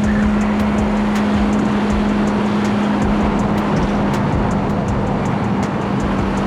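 Motorcycle riding at a steady speed, the engine holding one even note under loud wind and road noise, with faint light ticks throughout.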